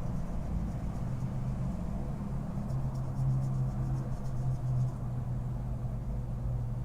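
Whiteboard marker scratching and scribbling on a spoon as a drawing is coloured in, over a steady low electrical hum.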